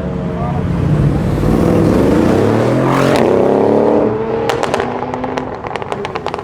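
A tuned car accelerating hard past, its engine note climbing and then dropping as it goes by, followed by a rapid string of sharp pops.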